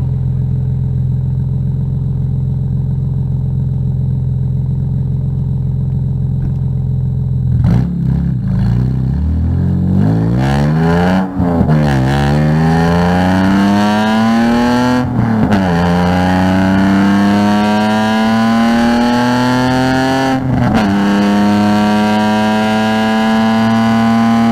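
A car engine holds steady low revs, then about 8 seconds in pulls away hard. The revs climb through the gears, with three upshifts where the pitch drops sharply, and hold nearly steady near the end.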